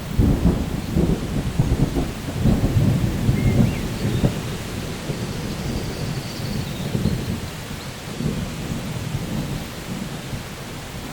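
Rolling thunder rumbling over steady rain. The rumble starts suddenly, is loudest over the first four seconds or so, eases off, then swells again shortly before the end.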